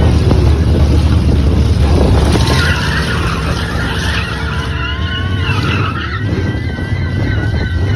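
Pulling truck's engine running hard under load, easing off a little about three seconds in, with high wavering whistles over it in the second half.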